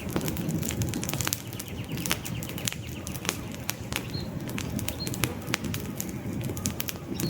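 Wood campfire burning, with frequent sharp crackles and pops over the low fluttering rush of the flames. A few short, high bird chirps sound in the second half.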